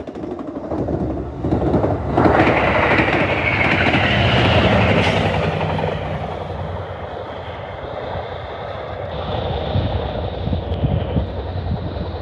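Passenger train going by at speed: steady rumble of steel wheels on the rails with a rapid clickety-clack over the rail joints, loudest in the first half.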